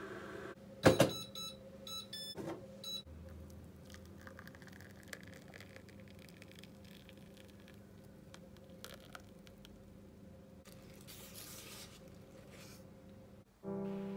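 A sharp click, then a quick run of short electronic beeps, followed by a faint low hum with small handling clicks.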